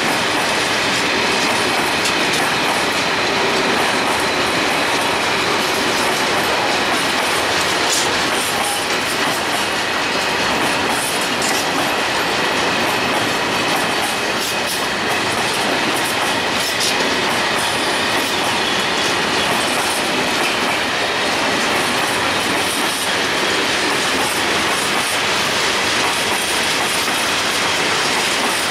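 A long freight train of high-sided open wagons rolling past close by: a steady rumble of steel wheels on the rails, with occasional clicks over the rail joints and a faint high wheel squeal running underneath.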